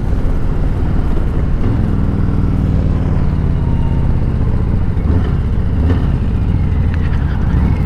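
Harley-Davidson Softail Slim V-twin engine running steadily while riding, a low even engine note with road and wind noise.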